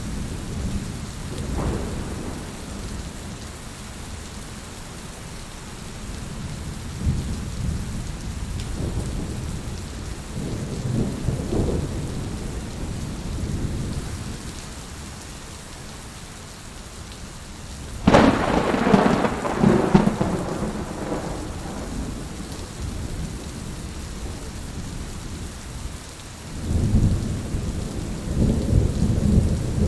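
Steady rain falling, with thunder rumbling low several times and a sharp, loud clap of thunder a little past halfway that rolls away over a few seconds.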